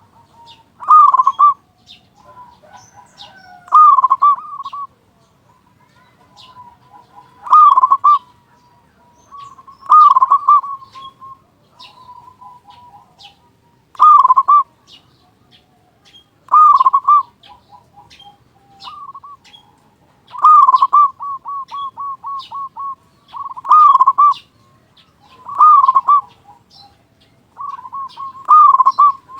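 A male zebra dove (perkutut) singing loudly: about ten rolling coo phrases, one every two to four seconds. Between them come softer, quicker runs of repeated notes. Faint high chirps of other small birds are heard behind.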